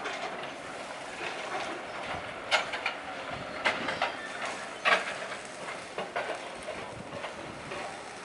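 Class 69 diesel locomotive running light at slow speed, its wheels giving a few sharp clacks over the track joints, the loudest about two and a half, three and a half and five seconds in, over a steady rumble.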